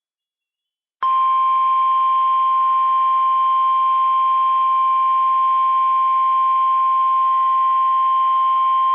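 NOAA Weather Radio warning alarm tone, a steady 1050 Hz beep that starts about a second in and holds unbroken. It is the attention signal that alerts receivers that a warning broadcast, here a severe thunderstorm warning, is about to follow.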